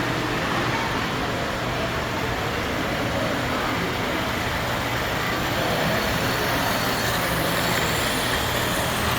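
Model trains running on the layout: a steady rumbling run with a low electrical hum underneath.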